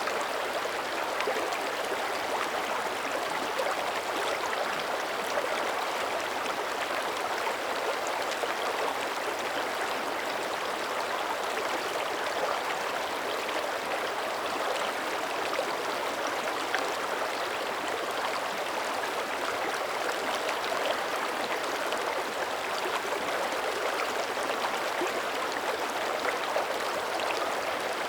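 Shallow mountain creek running steadily over rocks, a continuous babbling and gurgling rush of water.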